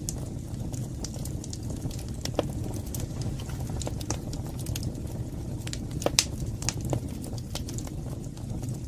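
Wood fire crackling in a fireplace: a steady low rumble of flames with scattered sharp pops, the loudest about six seconds in.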